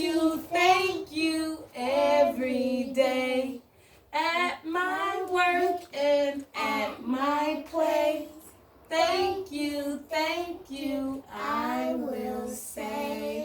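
A child and a woman singing a song together in sung phrases, with short breaks about four seconds in and again a little past eight seconds.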